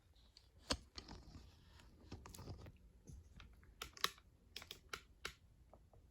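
Faint, irregular clicks and light taps, about ten of them scattered at uneven intervals.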